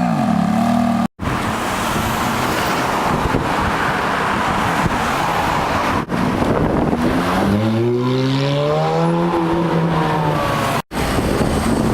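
Ferrari F430's 4.3-litre flat-plane V8 through its exhaust, revving hard with a rough, loud blare for several seconds. Later the engine climbs in pitch and settles back, and it drops to a steady idle near the end. The sound cuts out abruptly for an instant three times.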